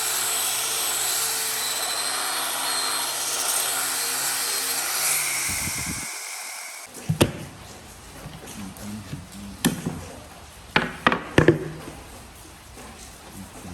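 A handheld power tool runs steadily on wood for about six seconds, then stops. A handful of sharp knocks follow as the wood or tools are handled.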